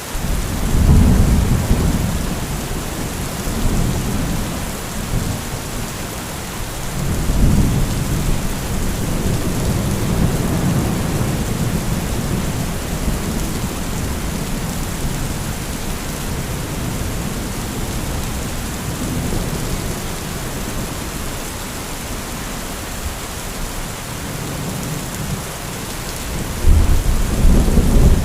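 Heavy rain falling steadily through a thunderstorm, with rolling thunder. There is a strong low rumble just after the start, another long roll that builds about a quarter of the way in and slowly dies away, and a new loud peal near the end.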